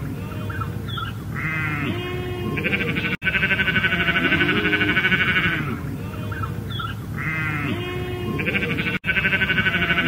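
Ewe and lamb bleating: shorter, lower calls, then a long, high, quavering bleat about three seconds in and again near the end. The sound cuts out for an instant just before each long bleat, and the same stretch of bleating seems to play twice.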